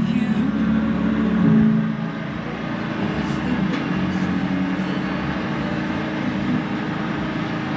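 Car driving, its steady engine and road drone heard from inside the cabin.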